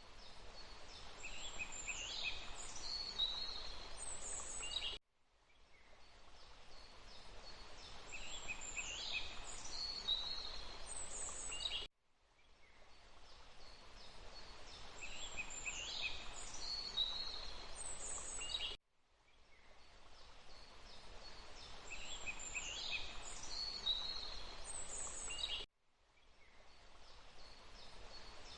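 Forest ambience: small birds chirping and trilling high over a steady rush of running water. It is a short recording looped about every seven seconds, each repeat cutting out abruptly and fading back in from silence, with the same bird calls in the same places each time.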